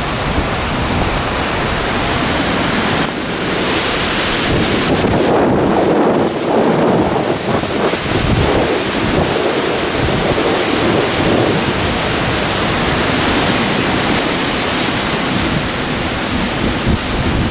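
Wind buffeting the microphone: a loud, rushing noise that swells and dips in gusts.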